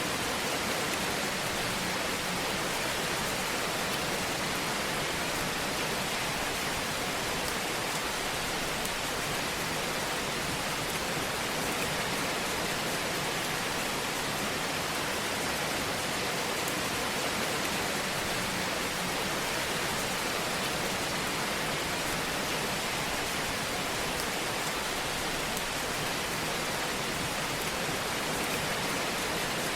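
Wood fire in a fireplace crackling: a steady hiss with small scattered pops.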